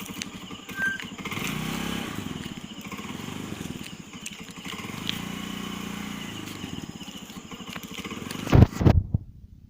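Motorcycle engine running, its pitch rising and falling twice as the throttle is opened and eased off. Near the end come a few loud thumps.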